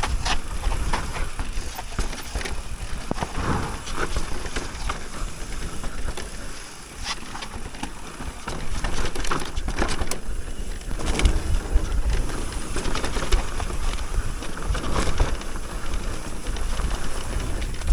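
Electric mountain bike ridden along a dirt trail: a rumble of wind and motion on the microphone, with scattered clicks and rattles from the bike and tyres.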